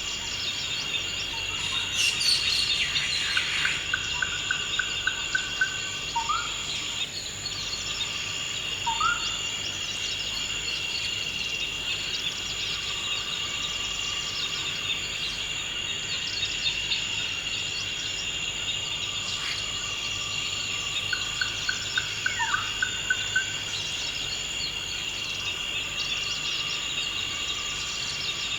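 Steady chorus of crickets or other insects, with songbirds calling over it: a quick trill of evenly repeated notes, heard twice, and a few short rising chirps.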